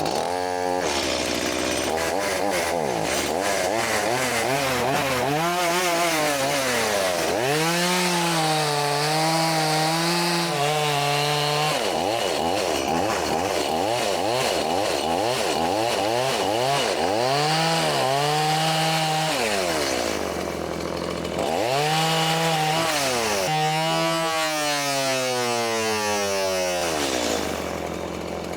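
Two-stroke chainsaw cutting wood, its engine revving up and down over and over as the throttle is worked and the chain bogs in the cut.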